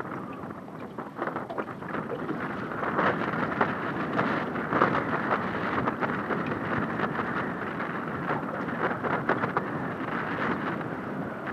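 Strong wind blowing over the microphone, with choppy water splashing and slapping around the boat in many short sharp spatters. It gets louder about three seconds in.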